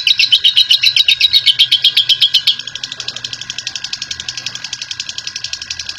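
Lovebird chattering in a long, rapid trill (ngekek panjang): high-pitched notes repeated about ten a second without a break. About two and a half seconds in it becomes quieter and thinner and keeps going at the same pace.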